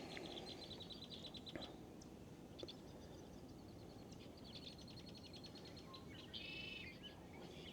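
Faint birdsong: rapid high trills, one in the first second and a half and another in the middle, and a short chirping call near the end, over a quiet outdoor background.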